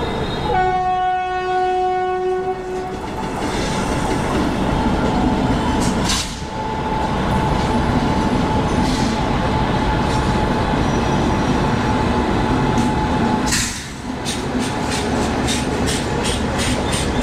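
Train running on the track, heard through an open coach door: a locomotive horn sounds one long note for about two and a half seconds starting about half a second in. Then a steady rumble of wheels on rail, with rapid, even clickety-clack over the rail joints near the end, about three or four clicks a second.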